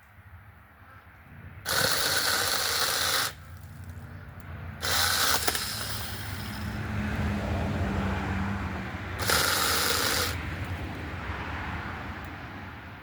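Battery-powered mini chainsaw cutting branches: three loud bursts of cutting, the first two about one and a half to two seconds long and the last about a second, with the motor running more quietly in between.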